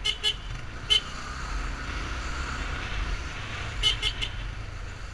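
A vehicle horn tapped in short toots: two quick ones at the start, one about a second in, and a quick run of three near the four-second mark, over a steady low rumble of riding through traffic.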